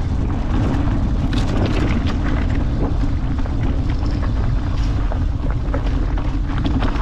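Wind buffeting the microphone with a steady low rumble, over the rattle and knocking of a mountain bike riding a rough dirt track, with many short clicks and clatters.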